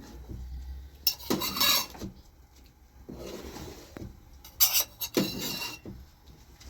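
Metal spoon clinking and scraping against a cooking pot and dishes in two short spells, as cooked food is dished out.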